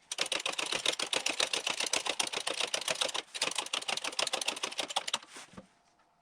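Rapid, even mechanical clicking in two runs with a brief break a little past three seconds, stopping about five seconds in.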